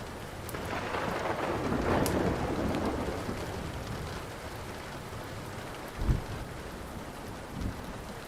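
Steady rain with a roll of thunder that swells about a second in and dies away by four seconds, over the small crackles of a wood fire. Two short low thumps come near the end.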